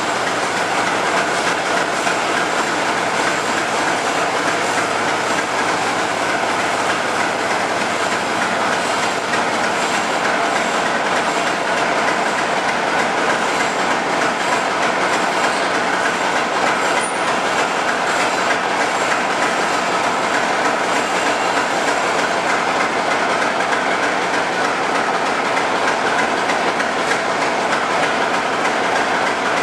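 GE U23B diesel-electric locomotive running, a loud, steady, unbroken sound.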